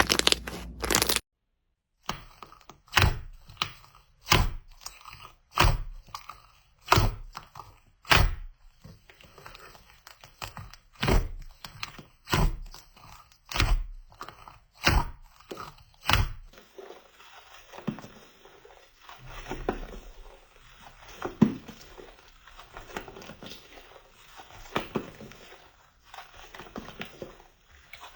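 Crunchy slime being pressed, giving sharp cracking snaps about one every second and a half. About halfway through, after a cut, come softer, quicker crackles and squishes.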